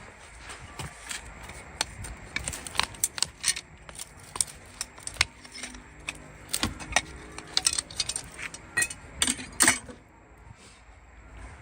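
Irregular sharp metallic clicks and clinks, a couple of dozen of them, loudest and thickest in the middle and later part.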